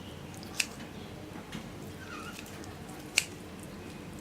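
Kitchen scissors cutting a chicken leg to free the bone: two sharp snips about two and a half seconds apart, over a faint steady hiss.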